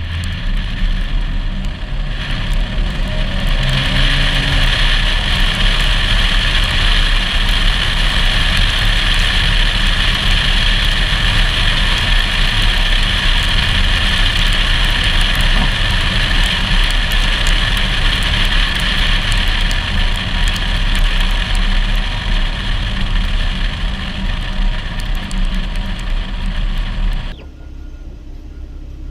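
Wind rushing over a GoPro HERO4 suction-cup-mounted on a moving car, over a low rumble of the car's engine and tyres on the road. The wind hiss builds over the first few seconds, stays loud and steady, then drops off suddenly near the end.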